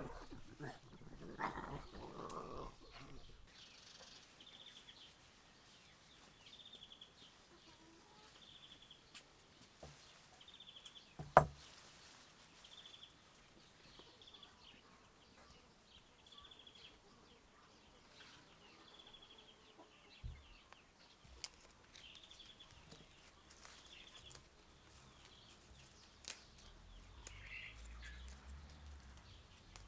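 A bird repeating a short high call about once a second, with one sharp knock near the middle.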